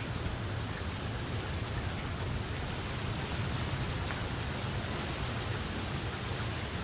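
Steady rain falling: a dense, even hiss of drops with a low steady rumble underneath.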